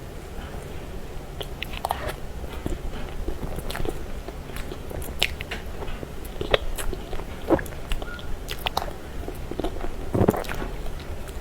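Close-up eating sounds: wet chewing, lip smacks and clicks of the mouth working through soft, creamy cake, irregular and a few a second, over a faint low hum.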